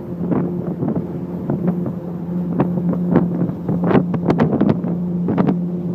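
Motorboat engine running at a steady hum while under way, with wind buffeting the microphone and a string of irregular sharp knocks.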